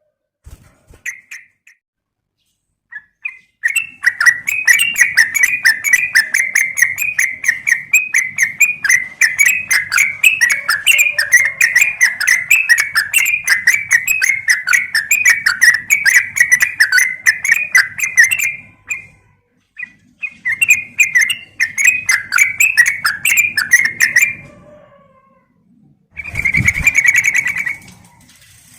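Yellow-vented bulbul (trucukan) giving long runs of fast, repeated chattering calls. They come in two bouts with a short break between, then a brief burst with a low rumble near the end.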